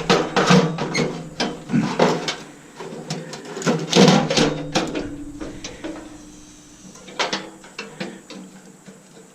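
Hand tools working on a stainless steel coffee maker: quick metallic clicks, rattles and knocks as parts are unscrewed and pulled apart. They come thick for the first few seconds, then thin out to a few scattered clicks.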